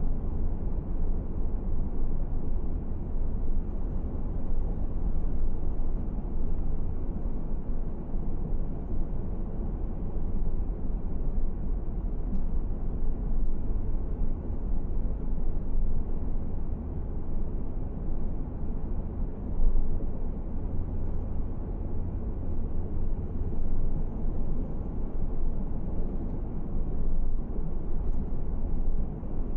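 A car driving along a paved road: a steady low rumble of tyre and engine noise.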